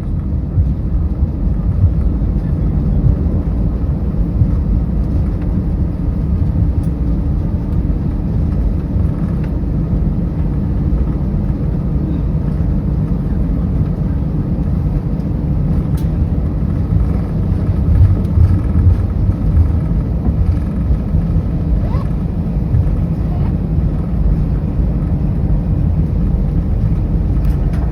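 Steady low rumble of an Airbus A319 heard from inside the cabin as it rolls on the ground just after landing, engine and wheel noise.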